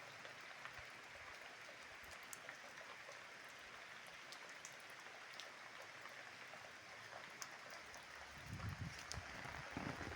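Heavy rain falling as a steady hiss, with scattered sharp drip ticks. A low rumble joins in about eight seconds in.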